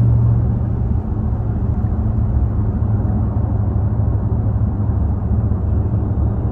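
Dodge Hellcat's supercharged V8 droning inside the cabin over road noise at highway speed. About a second in, the engine note drops back and the sound gets quieter as the car slows.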